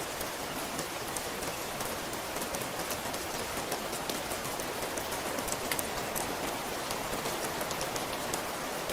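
Steady rain falling, with many sharp individual drop ticks standing out over an even hiss.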